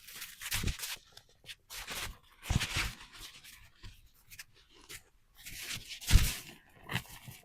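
Footsteps crunching on snow, a few uneven steps with a short pause between them, the loudest about six seconds in.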